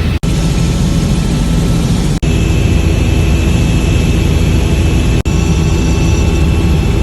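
Helicopter in flight: loud, steady engine and rotor noise that drops out for an instant three times.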